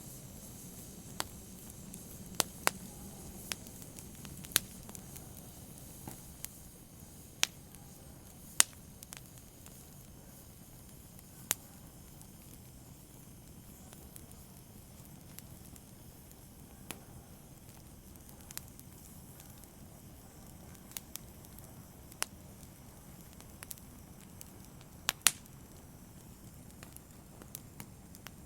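Open fire burning with a steady low hiss, broken by scattered sharp crackles and pops, a couple of them louder than the rest.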